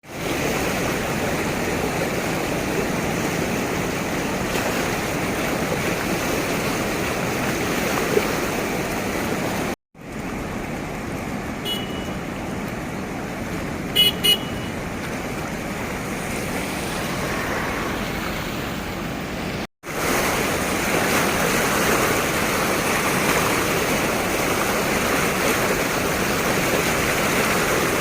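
Steady rush of floodwater pouring from the dam's released spillway, in three cut segments. A vehicle horn gives a short toot about twelve seconds in and two quick toots about two seconds later.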